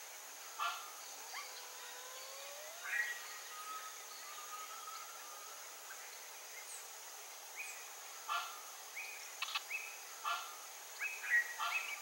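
Wild birds calling: scattered short calls, a long thin whistle that glides slowly in the first half, and a quicker run of calls near the end. A steady high-pitched hiss lies under them.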